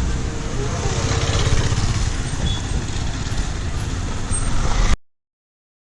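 Heavy vehicle engine running with a steady low rumble, amid traffic noise. The sound cuts off suddenly about five seconds in.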